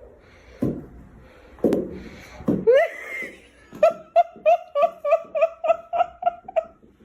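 A person laughing: a few scattered sounds, then, just before the middle, a quick run of short even-pitched "ha" bursts at about five a second.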